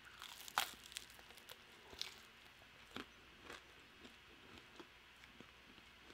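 Close-up eating sounds of cheese-powdered Korean fried chicken: a bite, then chewing heard as faint, irregular crisp crunches and mouth clicks, the sharpest about half a second in.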